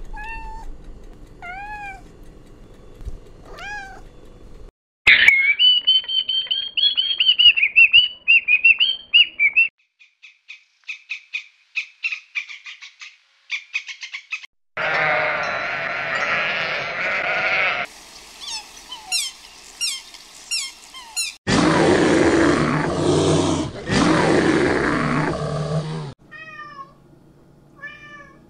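A string of different animal calls cut one after another. There are short repeated chirps and a warbling call, a fast trill, falling high chirps, and two longer harsh calls, the loudest of them late on.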